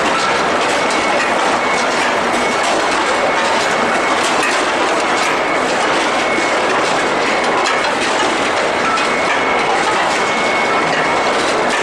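Steady clattering machinery noise of a steel-ball forging production line, metal parts rattling and rolling continuously, with a faint steady high whine running through it.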